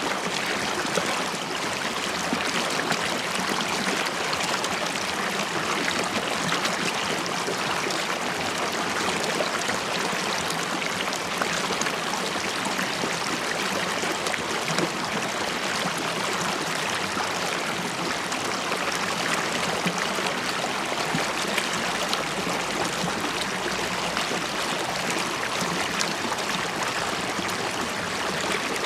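River water flowing steadily, a continuous rushing and bubbling stream.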